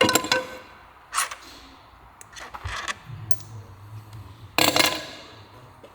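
Metal engine parts and tools being handled, clinking and scraping in several separate clatters, the loudest near the end, with a metallic ring after the strikes.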